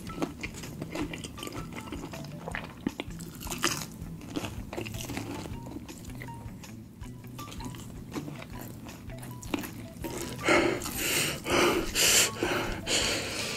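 Close-miked eating of crispy fried chicken: wet mouth clicks and crunching of the breaded skin as it is bitten and chewed. It gets louder near the end, with several longer bursts of open-mouthed chewing.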